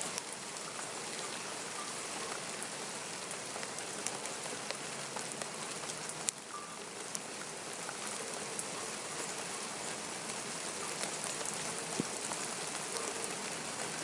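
Steady rain falling, a dense patter with scattered sharper drips; one sharp tick about six seconds in.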